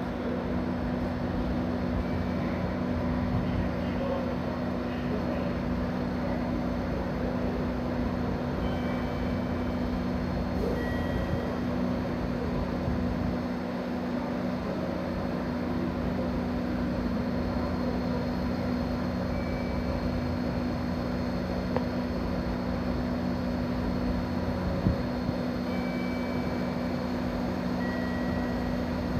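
A JR 211 series electric train standing still at the platform, its onboard equipment giving a steady low hum over station noise, with a single sharp click about 25 seconds in.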